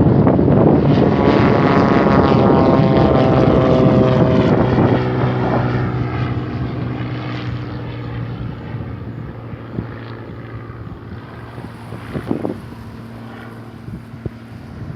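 Beechcraft F33A Bonanza's six-cylinder piston engine and propeller at full takeoff power. The pitch drops as it passes, then the sound fades steadily as it climbs away.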